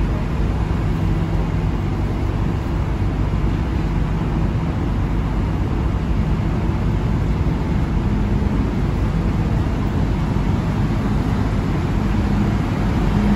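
Steady low hum of a stopped MTR C-train standing at a platform with its doors open. A second train pulls into the opposite platform near the end; a steady tone comes in about two-thirds of the way through and the level rises a little.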